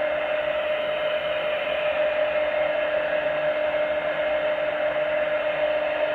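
Handheld hair dryer running steadily: a constant rush of air with a steady hum.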